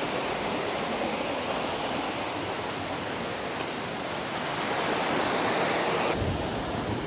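A river rushing over rocks in a steady, even flow, which changes abruptly about six seconds in.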